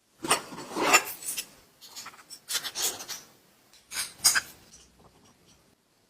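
A hand tool worked against metal in several uneven scraping strokes, the loudest about a second in, as rust and old finish are taken off a vintage blade sharpener.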